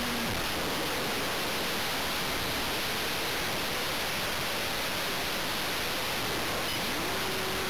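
Steady rushing hiss of airflow and mic noise on an RC plane's onboard camera, with the faint whine of the Multiplex Blizzard's electric motor. The whine falls in pitch at the start and fades out, then rises back and holds near the end as the throttle is opened again.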